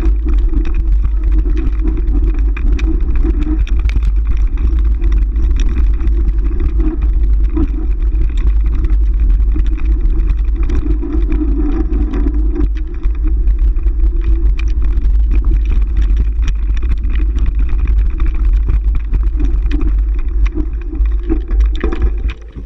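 Steady low rumble of a moving bike ride, continuous, dropping away abruptly near the end.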